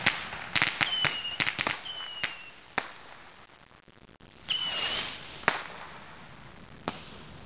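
Consumer fireworks going off in a rapid string of sharp bangs. Several bangs are followed by a brief high whistle that slides down in pitch. The bangs come thickest in the first three seconds, then in two more bursts a few seconds in.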